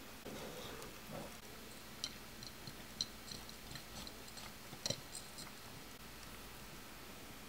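Faint, scattered clicks and taps of plastic toy horse figures being handled against a small toy apple crate, with a slight ring to the strongest clicks.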